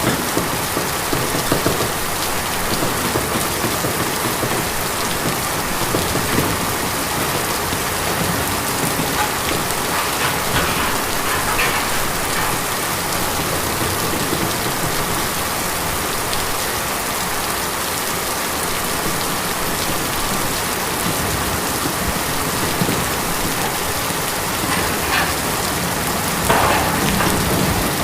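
Steady rain falling on a tin roof, a dense patter of drops that swells briefly twice.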